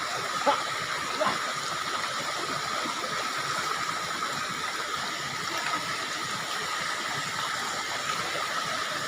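Spring water flowing steadily in a continuous rush, with a couple of small knocks about half a second and just over a second in.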